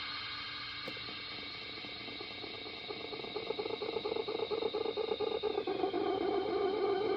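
Homemade feedback noise instrument playing microphone-to-speaker feedback through echo and delay: a dense drone of several steady tones that grows louder and begins fluttering rapidly about three seconds in, with one high tone sliding down near the end.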